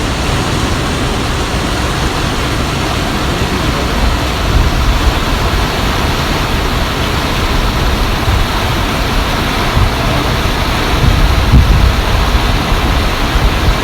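Fast-flowing stream of water rushing loudly and steadily, with a deeper rumble swelling up now and then, strongest about three-quarters of the way through.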